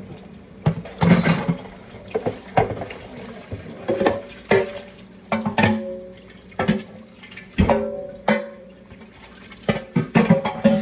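Irregular clattering and knocking of dishes and pans at a kitchen sink, some knocks ringing briefly, with water from the tap at times.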